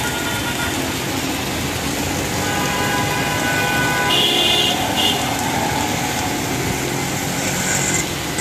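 Heavy rain falling as a steady hiss, with a brief high-pitched sound about four seconds in.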